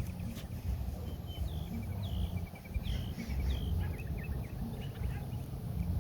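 Small birds chirping: a series of short, falling chirps and a quick trill of ticks, over a low, uneven rumble.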